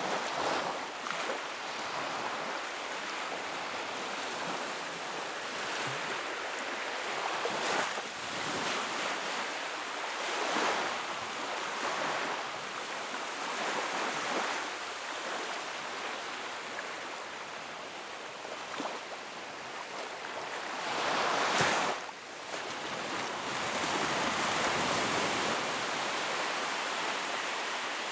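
Sea waves breaking and washing ashore in a continuous surf, with surges every couple of seconds and one louder surge about three quarters of the way through that breaks off sharply.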